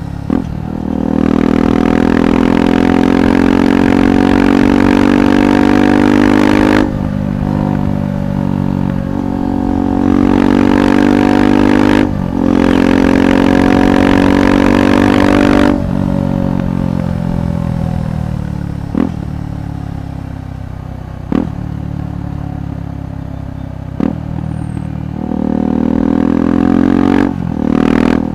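KTM 390 Adventure's single-cylinder engine through a Red Rooster aftermarket exhaust, heard while riding. It accelerates hard with rising pitch and two quick upshifts, then rolls off with falling pitch, with three short sharp cracks. It pulls up again near the end.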